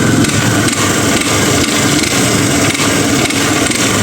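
Honda Bros 150 single-cylinder engine running with an odd mechanical noise that sounds like a loose connecting rod or piston slap. The mechanic puts it down to the balancer gear, whose worn springs leave the split gear with play.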